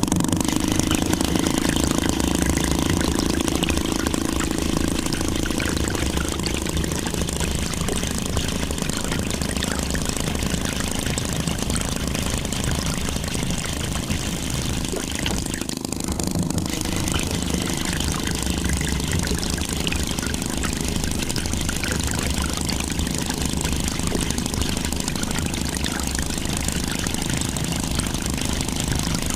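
Small electric motor of a homemade miniature tractor water pump running steadily, with a fast, even low chatter.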